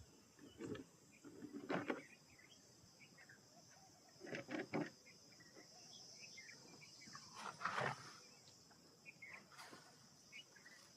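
Steady high insect drone with scattered short bird chirps, broken by a few brief louder rustling noises, four in all.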